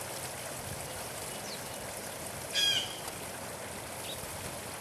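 A short, harsh bird call a little past halfway, over a steady trickle of running water.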